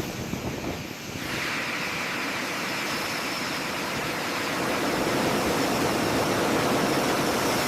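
Steady rushing noise of a running aircraft engine, growing slightly louder, with a faint high whine joining about three seconds in; it cuts off abruptly at the end.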